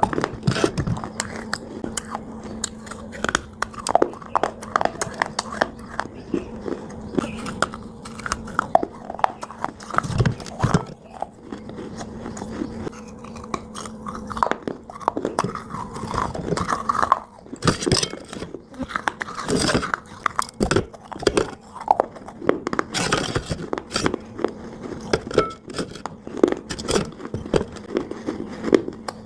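Multani mitti (Fuller's earth clay) being bitten and chewed: repeated irregular dry crunches as the lumps break up.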